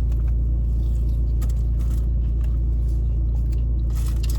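Steady low rumble or hum, with a few faint rustles and clicks over it.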